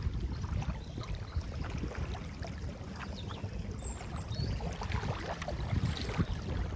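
Outdoor lakeside ambience: wind rumbling on the microphone with light rustling and gentle water lapping, steady throughout.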